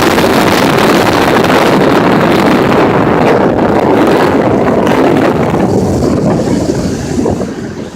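Loud wind rushing over the phone's microphone from a moving car, easing off near the end.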